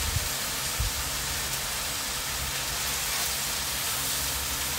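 Thin chicken cutlets sizzling on a Blackstone flat-top griddle: a steady frying hiss over a low hum, with two soft thumps in the first second.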